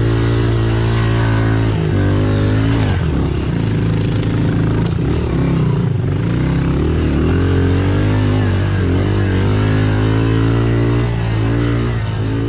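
2020 Honda CRF110F pit bike engine, a small single-cylinder four-stroke, running under load. The revs hold steady at first, then rise and fall repeatedly from about two seconds in.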